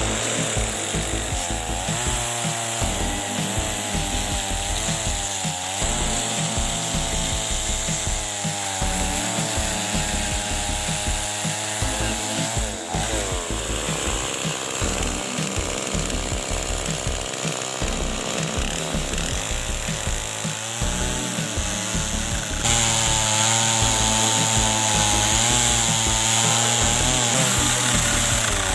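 Chainsaw running and cutting into a log, its engine pitch rising and falling as the chain bites and frees. The sound changes abruptly and gets louder about 22 seconds in.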